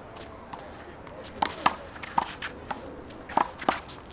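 Handball rally: a small rubber handball sharply smacked by hand and hitting the wall, about five loud smacks, some in quick pairs.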